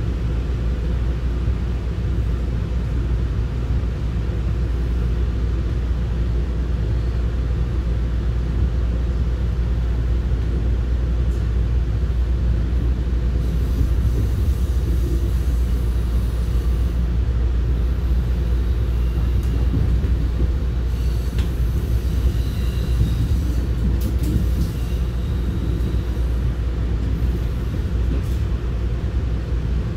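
Electric commuter train, an MR-90 electric multiple unit of the Deux-Montagnes line, running along the track, heard on board as a steady low rumble.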